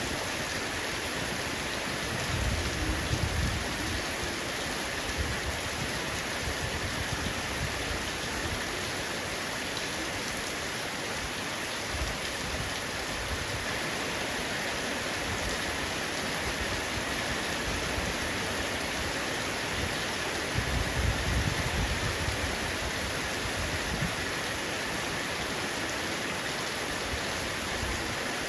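Heavy rain falling steadily on a roof, an even rushing patter, with a few soft low rumbles about 3 seconds in and again about 21 seconds in.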